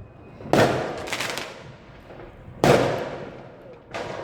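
Fireworks bursting: a sharp bang about half a second in, followed by a short crackle, another sharp bang about two and a half seconds in, and a softer one near the end, each trailing off over about a second.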